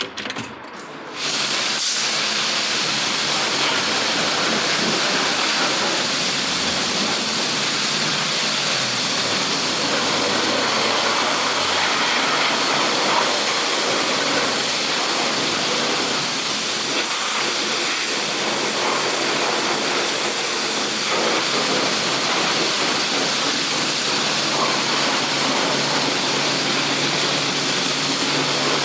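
Steady rushing wind noise on a small action camera's microphone while riding a KTM 390 Adventure motorcycle, with the bike's engine a faint hum beneath. It comes in suddenly about a second in.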